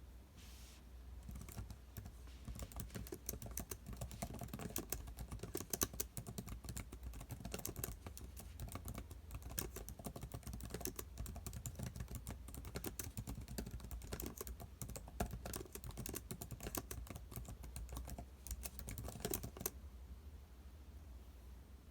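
Computer keyboard being typed on fast and continuously, a dense run of key clicks that starts about a second and a half in and stops near the end, over a low steady hum.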